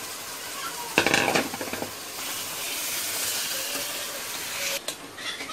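Marinated chicken sizzling in hot oil and ghee in a pot while a slotted spatula stirs and turns it. A short scrape about a second in and a sharp knock near the end. This is the bhuna stage, where the chicken is fried in its masala.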